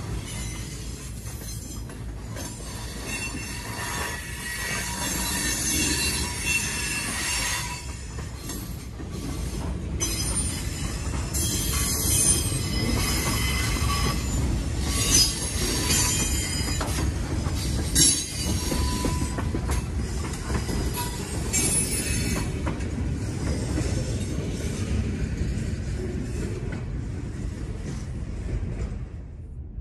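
Freight cars rolling past on jointed track: a steady low rumble of steel wheels on rail, with high-pitched squealing that comes and goes. There is a single sharp clack about eighteen seconds in.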